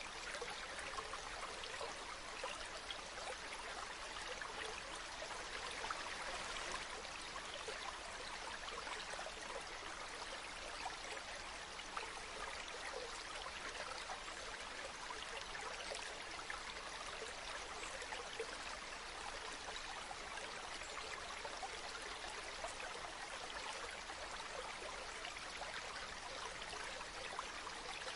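Waterfall: water falling and splashing in a steady, even rush with a fine crackle of droplets.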